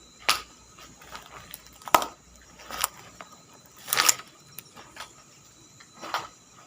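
Slow footsteps: soft crunching steps at an uneven pace, roughly one a second.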